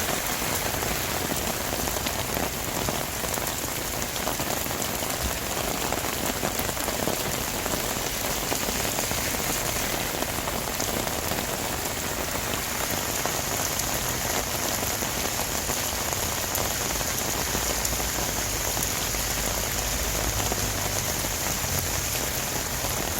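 Heavy downpour: dense rain pouring and splashing on surfaces at a steady level. A low rumble joins in the last few seconds.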